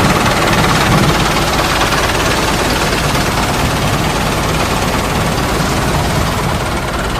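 An engine running steadily: a continuous rumble with no distinct beat or change in pitch.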